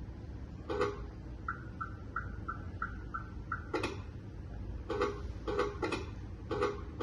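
Electronic beeps and clicks from an RC model truck's electronics: a run of seven short, evenly spaced beeps about a second and a half in, and a handful of sharp clicks scattered through, over a low steady hum.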